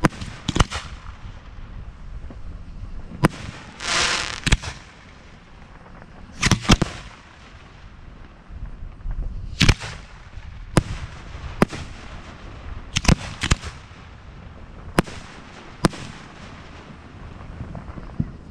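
Aerial fireworks shells going off during a display: about a dozen sharp bangs at irregular intervals, some in quick pairs. There is a crackling hiss about four seconds in and a briefer one a little before seven seconds.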